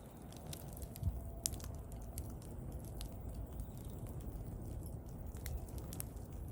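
Wood bonfire burning: irregular sharp crackles and pops from the wood over a steady low rumble.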